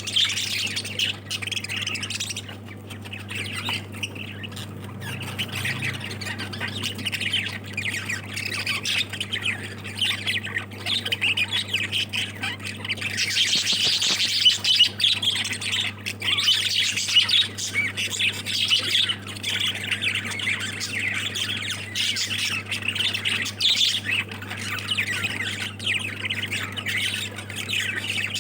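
A flock of pet lovebirds chattering and squawking without pause, loudest around the middle, over a steady low hum.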